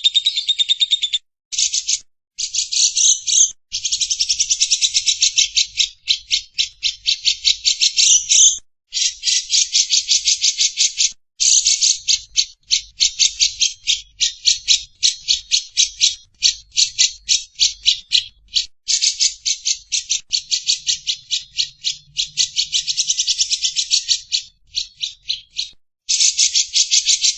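Lovebird giving its long 'ngekek' chatter: long runs of rapid, evenly repeated high notes, broken by short pauses and restarting.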